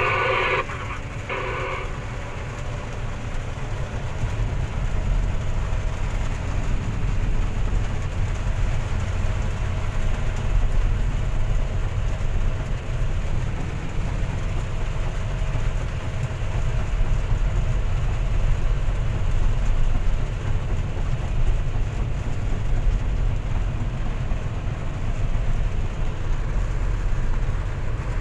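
Steady low rumble of a heavy vehicle's engine idling while parked, with an even hiss of rain over it.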